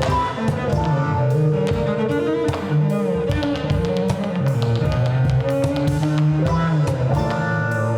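Live instrumental passage from a string band: strummed guitar and plucked mandolin over held bowed cello notes, with drums and percussion keeping a steady beat.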